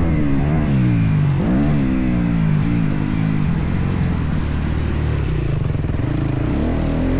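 Motocross bike engine running hard on a dirt track, its pitch rising and falling with the throttle, with a sharp rev up and back down about a second and a half in.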